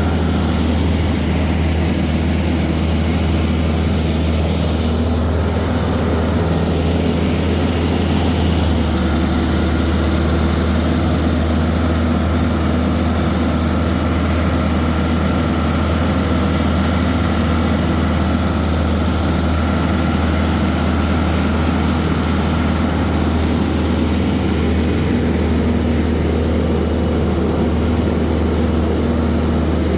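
Loader tractor's engine running steadily as it drives along in third gear, a continuous low drone.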